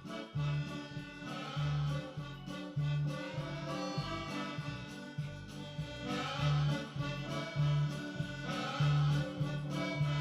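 Accordion tune with a steady, regular bass line under sustained chords.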